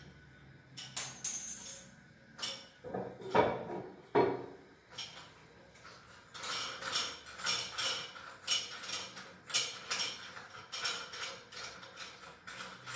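Plastic toilet cistern parts being handled and fitted: a few sharp knocks in the first few seconds, then a run of quick clicking and rattling.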